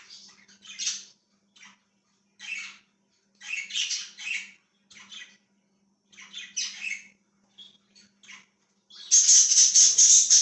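Budgies chirping and chattering in short bursts with pauses between them, ending in a louder, denser burst of chatter about nine seconds in.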